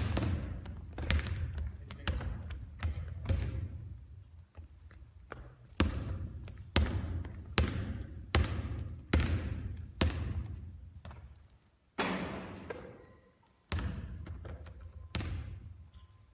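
Basketball bouncing on a court: a string of irregular bounces, about one or two a second, each one echoing briefly, with a pause a few seconds in.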